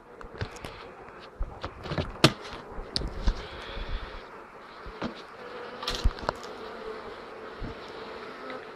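Honeybees buzzing steadily around an opened hive, with a string of sharp knocks and clicks over it, the loudest about two seconds in.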